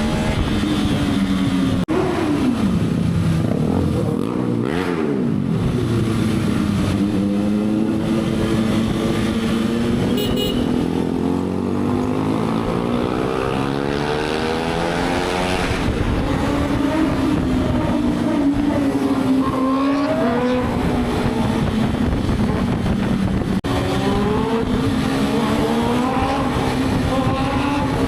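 Kawasaki ZX-6R inline-four with an SC-Project exhaust being ridden, its engine note climbing and dropping over and over as the revs rise and fall through the gears.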